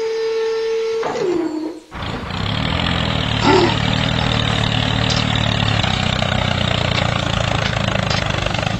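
A steady high whine slides down in pitch and cuts off about a second and a half in. Then a tractor engine starts and runs steadily with a low rumble.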